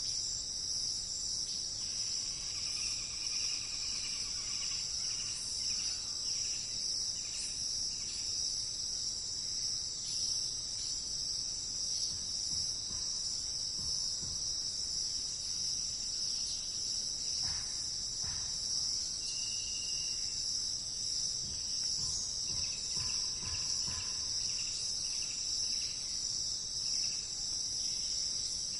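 Steady, high-pitched chorus of insects trilling without a break, with a few faint bird calls over it, including one short whistled note about two-thirds of the way through.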